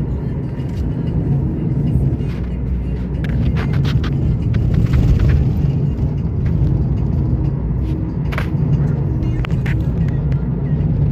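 Car driving along a mountain road: a steady low rumble of engine and road noise, with a few short rattles and clicks.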